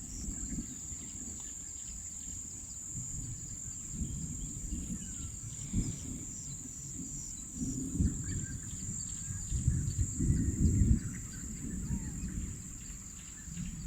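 Steady high-pitched insect chorus, with irregular bouts of low rumbling and thudding, loudest about eight and eleven seconds in.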